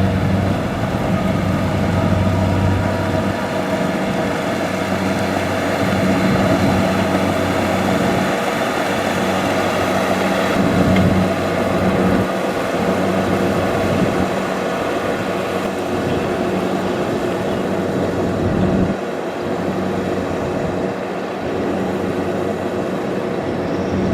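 Kubota DC-70 Plus combine harvester running steadily while harvesting rice: a diesel engine with the noise of its working machinery.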